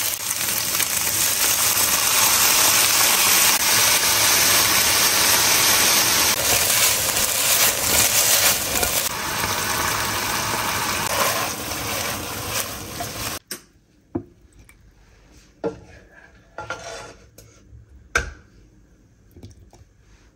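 Chicken breast and green pepper sizzling and being stirred in a hot nonstick wok, the sizzle flaring up for a couple of seconds as a bit of water goes in. About two-thirds through the sizzle cuts off abruptly, leaving only a few light clinks and knocks.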